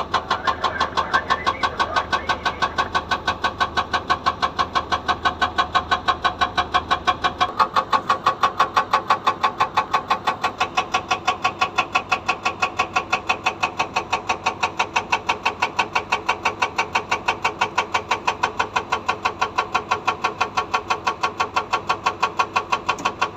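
Hydraulic breaker on a Komatsu PC200 excavator hammering very hard rock: a fast, even train of blows, about four to five a second, over the excavator's running diesel engine. A low hum underneath drops away about seven seconds in.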